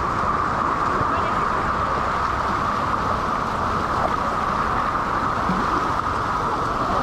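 Steady rush of whitewater rapids, an even roar of moving water that holds level throughout.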